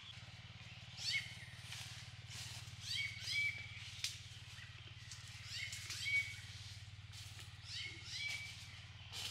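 A bird calling: a short phrase of quick chirping notes ending on a brief held note, repeated four times about every two seconds, over a faint steady low hum.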